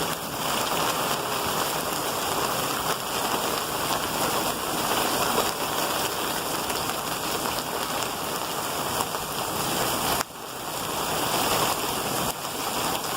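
Storm rain and 40–50 mph wind gusts make a steady rushing hiss. It drops out briefly about ten seconds in.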